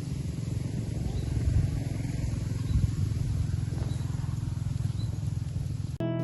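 A steady low rumble with a rapid flutter that cuts off sharply about six seconds in, where acoustic guitar music begins.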